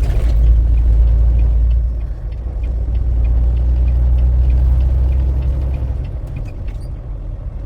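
Low, steady rumble of a semi truck's diesel engine and road noise heard from inside the cab while driving, swelling and easing.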